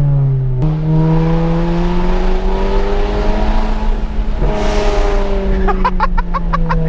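Straight-piped, tuned Volkswagen Mk7 Golf GTI's turbocharged 2.0-litre four-cylinder under hard acceleration, heard from inside the car. The engine note drops with an upshift about half a second in, then climbs steadily through the gear, with a quick run of sharp exhaust pops near the end.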